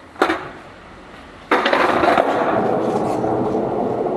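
Skateboard on wet pavement: a sharp clack of the board about a quarter second in, then from about a second and a half in the loud, steady rumble of its wheels rolling.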